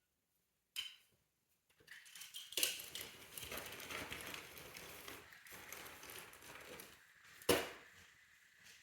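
Plastic toy pieces and packaging being handled and pushed back into their box, rustling and clattering, with a click about a second in and one sharp knock near the end.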